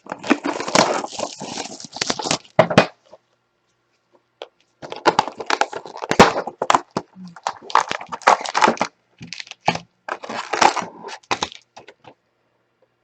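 Crackling and tearing of plastic wrapping as a sealed trading card box is opened, in two spells: about three seconds at the start, then, after a short pause, about six seconds more.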